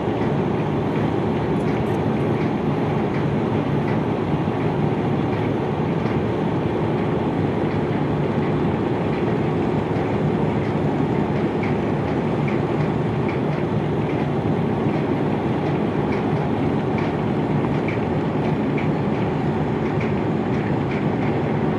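Steady mechanical rumble of a river passenger launch underway, running evenly with a faint irregular clatter over it.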